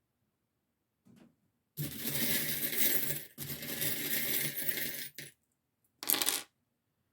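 A deck of oracle or tarot cards being shuffled: two long runs of rapid clattering, then a short one about six seconds in.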